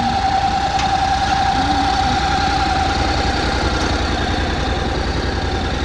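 Honda CTX700N's parallel-twin engine idling steadily: an even low rumble with a constant higher tone over it.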